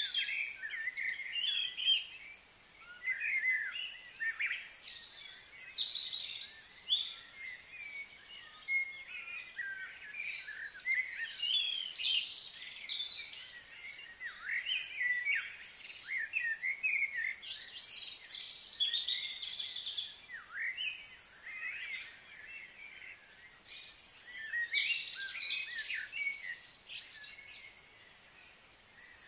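Small birds chirping and singing in busy overlapping bursts of high, quick notes, with a couple of brief quieter spells.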